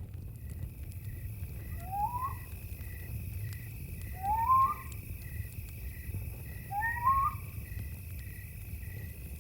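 Night jungle ambience: crickets trilling steadily with a pulsing chirp about twice a second, a campfire crackling over a low rumble, and a rising whistled call heard three times, about two and a half seconds apart.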